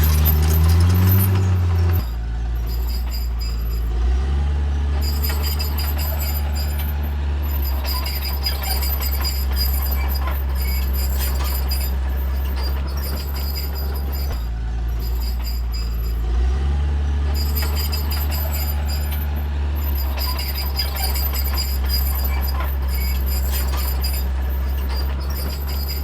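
Caterpillar D3C bulldozer's diesel engine working under load. Its pitch rises in the first second, drops about two seconds in, then steps up and down a few times as the load and throttle change. An intermittent high-pitched squeal runs over it.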